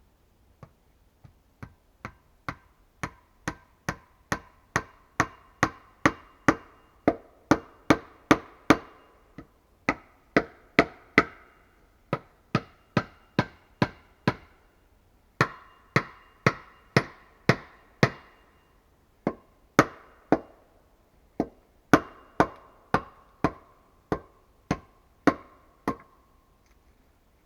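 Repeated hard knocks, about two a second, each ringing briefly with a pitched tone, in runs broken by short pauses. The first strikes are faint and they grow louder over the first several seconds.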